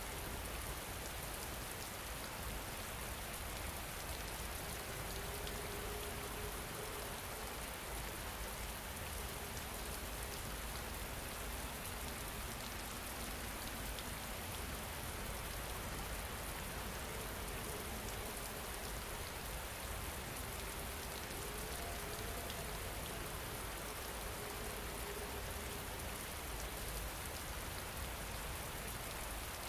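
Steady rain falling, an even hiss of drops, with a faint soft tone that fades in and out now and then.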